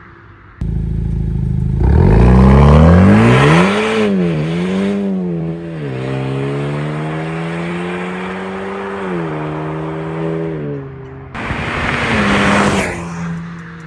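2020 Honda Accord 2.0 turbo's exhaust, through a Borla exhaust fitted with SPELAB exhaust cutouts, under hard acceleration. The engine note climbs in pitch and drops in steps as the transmission shifts up, with a stretch of steady pull between shifts. It cuts off suddenly near the end and gives way to a second short pull that rises again.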